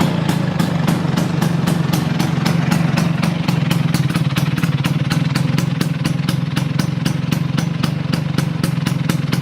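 Vespa scooter engine idling steadily through an R9 aftermarket silencer fed by a racing expansion chamber, a low steady drone with a regular popping pulse about four to five times a second.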